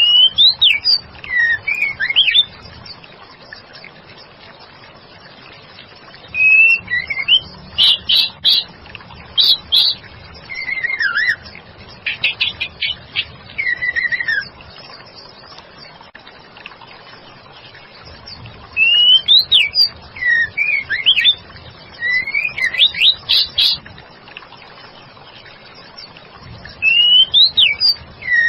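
Female white-rumped shama singing: bouts of high, sliding whistled notes and quick trills lasting a few seconds each, four times, separated by pauses of several seconds.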